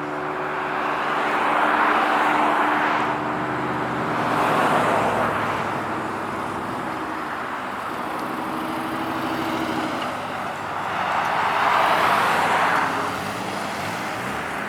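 Cars driving past with their engines running: a steady engine hum, with swells of engine and exhaust noise about two seconds in, around four to five seconds in, and again about twelve seconds in as cars go by.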